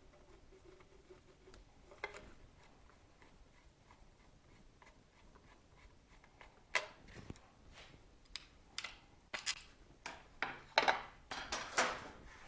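Metal tools and parts clinking and knocking as a motorcycle is taken apart by hand, a few scattered clicks at first, then a busy run of clattering knocks in the second half.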